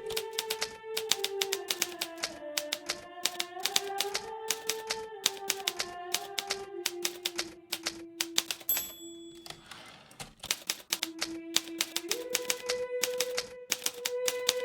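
Hermes Baby portable typewriter being typed on, a fast run of key strikes with a short break about ten seconds in. A slow, soft melody plays underneath.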